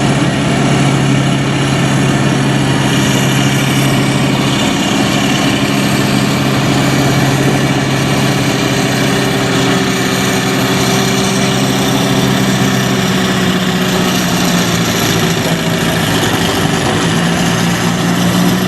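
Farm tractor engine running steadily at low speed, with a change in its tone about four and a half seconds in.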